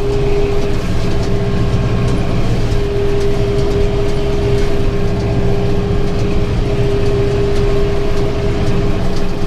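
Farm tractor engine running steadily under load while driving a round baler through a thick windrow, with a steady high whine held over the low engine rumble.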